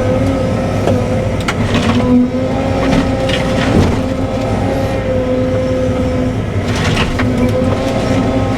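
Cat 313 excavator's diesel engine running steadily with a held hydraulic tone, as the machine grabs and crushes wood; several sharp cracks and knocks of breaking wood come through it.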